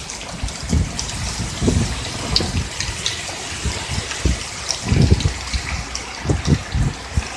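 Rainstorm with strong gusting wind: steady rain with pattering drops, and irregular low thuds as gusts buffet the microphone.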